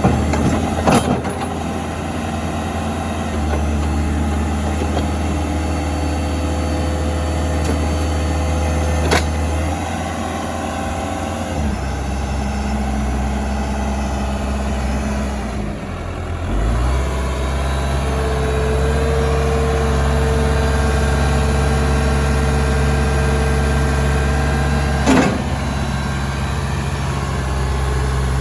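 Diesel engine of a 2007 Case 590 Super M backhoe running, its speed stepping up and down a few times, with a few sharp clunks and a steady whine held for several seconds after the middle.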